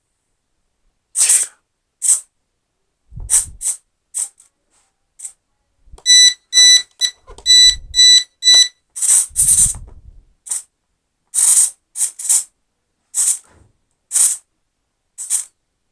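A quick run of about seven short, high electronic beeps about six seconds in, among scattered short hissy clicks.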